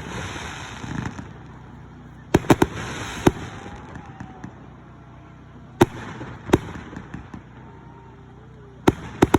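Fireworks exploding in sharp bangs every second or two, some in quick clusters of two or three. A hissing crackle trails after some of the bursts.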